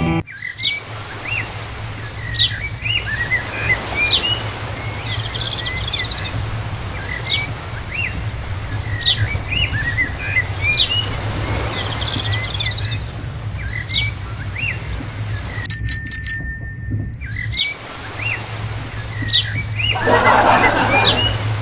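Small birds chirping again and again over a steady low hum. About sixteen seconds in, a bell-like ring with several clear tones sounds once, for about a second and a half.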